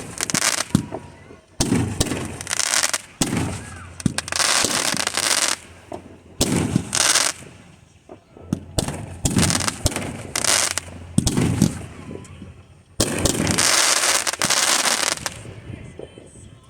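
Fireworks going off in quick succession: a loud bang every second or two, each followed by about a second of sizzling crackle.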